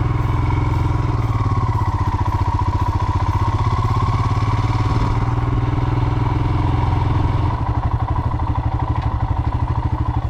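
Royal Enfield Himalayan's single-cylinder engine running on the move, a steady fast pulsing of firing strokes. About seven seconds in it eases off to slower, more distinct thuds as the bike slows.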